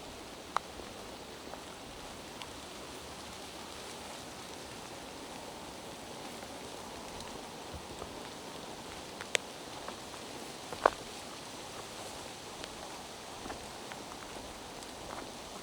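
Steady rain falling in a forest, an even hiss, with a few sharp single taps of drops, the loudest about eleven seconds in.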